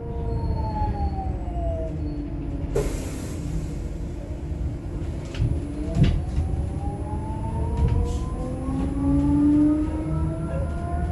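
Electric bus traction motor whine falling in pitch as the bus slows, a short hiss about three seconds in, then the whine rising steadily again as it pulls away.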